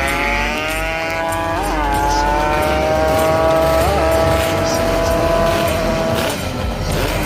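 Tuned two-stroke motorcycle engine running at high revs, its pitch climbing slowly with short wavers about one and four seconds in. The engine note drops away near the end.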